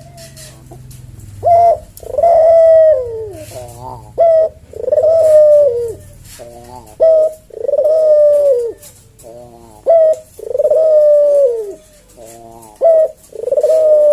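Puter (ringneck) dove cooing its slow, spaced-out "kuk-deruk" song. Each phrase is a short clipped note, a long coo that falls at the end, then a soft burbling trill, repeated about every three seconds, four or five times.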